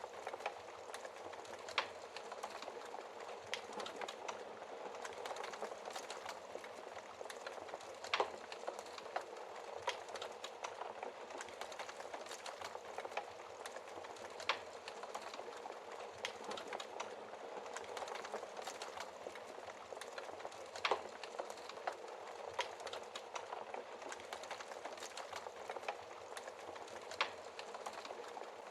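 Wood fire burning in a fireplace: a steady dense crackle with frequent small snaps and a few louder pops of burning wood, spaced several seconds apart.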